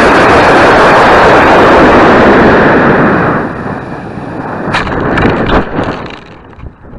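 Big Bertha model rocket's solid-propellant motor burning at liftoff: a very loud, rushing exhaust noise that began abruptly at ignition. It holds steady for about three seconds, then fades, with a few sharp cracks about five seconds in.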